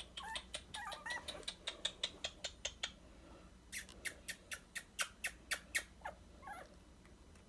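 A few faint, short squeaks from young dachshund puppies, over quick runs of sharp clicking taps at about five a second; the taps pause briefly near the middle.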